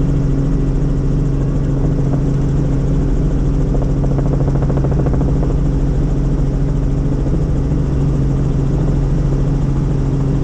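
Helicopter in flight heard from inside the cabin: a loud, steady drone of rotor and engine with a constant low hum.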